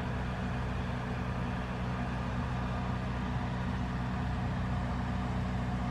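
A steady, low engine hum that holds one pitch throughout.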